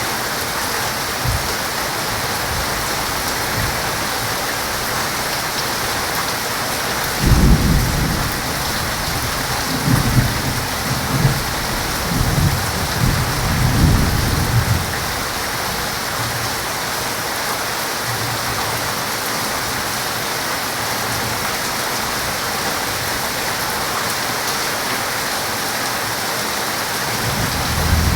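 Heavy rain falling steadily, with a roll of thunder rumbling in several deep surges from about seven seconds in to about fifteen seconds in, and another rumble building near the end.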